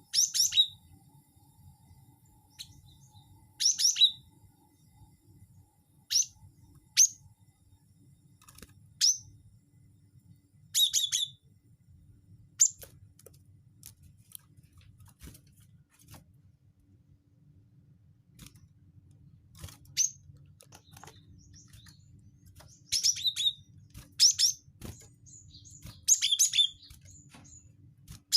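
Cinereous tit (gelatik batu) calling: short, sharp high chirps in scattered clusters a second or several seconds apart, busiest near the end. A faint steady low hum runs underneath.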